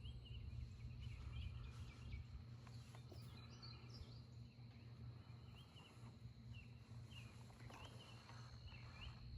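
Near silence: a low steady hum with faint, short bird chirps scattered throughout.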